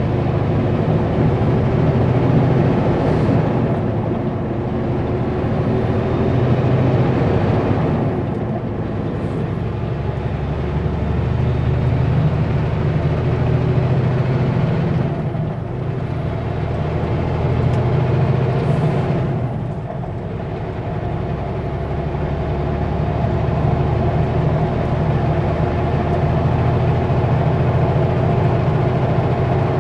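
Kenworth W900L semi-truck's diesel engine running steadily under load, its low drone swelling and easing every few seconds.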